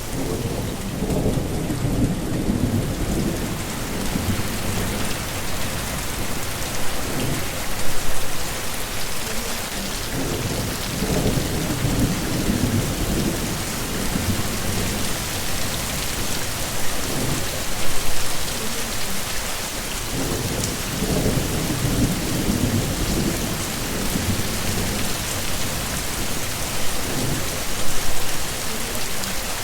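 Heavy rainstorm: steady, dense rain hiss with low rolling rumbles of thunder that swell and fade every few seconds.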